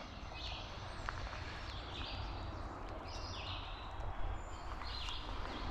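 A songbird singing a series of short phrases, about one a second, over a low steady rumble.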